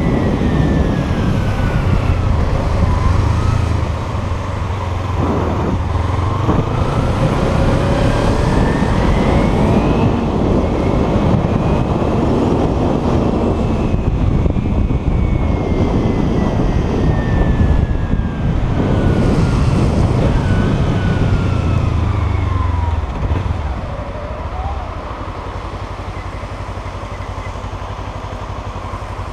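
Kawasaki Ninja 300's parallel-twin engine pulling through the gears, its pitch rising and falling several times, with wind and road noise. About three-quarters of the way through it drops to a steady idle as the bike stops at a red light.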